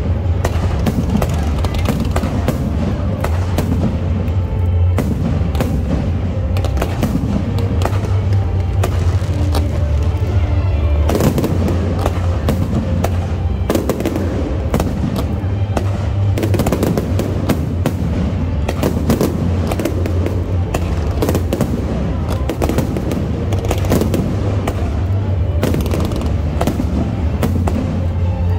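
Barrage of 3-inch aerial firework shells bursting in rapid succession, a dense run of cracks and booms with hardly a gap, over show music playing underneath.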